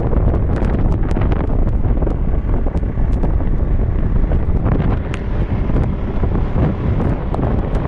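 Wind buffeting the microphone of a moving motorbike, with crackles, over the steady engine and road noise of the ride.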